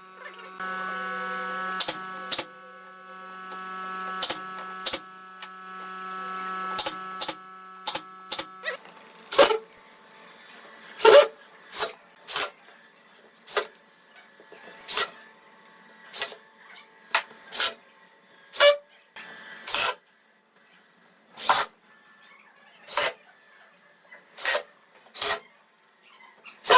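A motor hums steadily for about the first nine seconds, with scattered sharp knocks over it. It then stops, and single sharp knocks follow one by one, about every second and a half.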